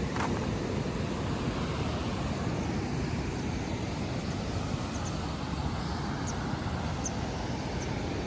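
Steady rush of a river flowing close by, with a few faint, short, high chirps in the second half.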